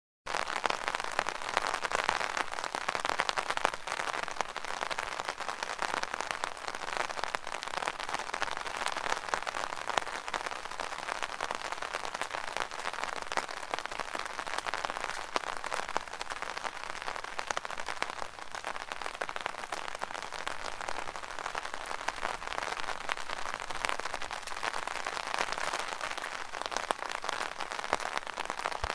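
Rain falling on an open umbrella: a steady, dense rush of countless small drop hits on the canopy.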